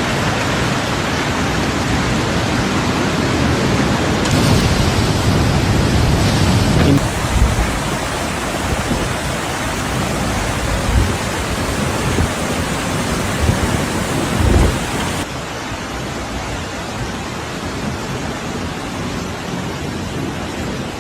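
Steady rushing noise of a heavy rainstorm, its character changing abruptly three times, with a few short low thumps.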